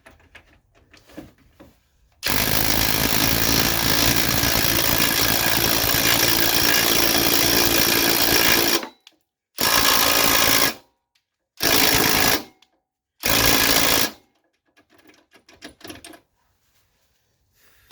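Impact wrench hammering through a universal-joint socket adapter on a stubborn front-suspension bolt. One long run of about six and a half seconds, then three short bursts. The bolt only creeps.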